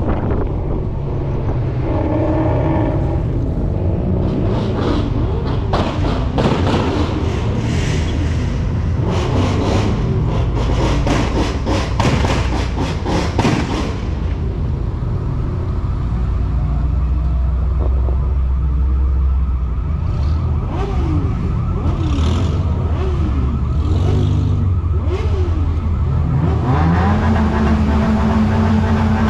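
Car engines running and revving, the pitch rising and falling several times, with a stretch of sharp crackles in the middle. Near the end one engine revs up and holds a steady higher pitch.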